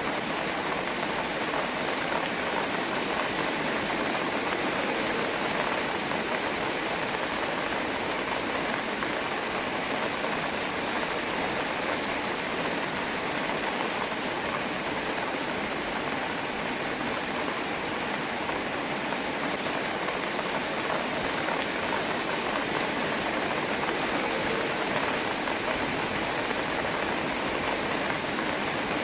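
Steady rain falling, an even hiss of countless drops that holds level with no let-up.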